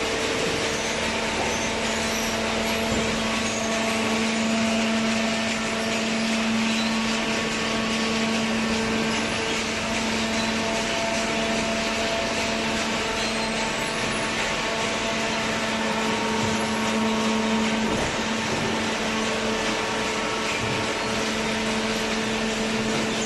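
Hydraulic cardboard baler running: a steady motor-and-pump hum with a constant whine over a broad hiss. The strongest hum tone fades out about eighteen seconds in.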